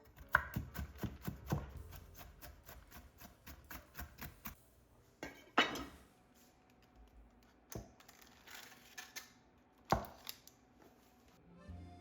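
Kitchen work sounds: a quick run of light taps and knocks in the first second and a half, then scattered single knocks. The loudest comes about ten seconds in, with another strong one near the middle.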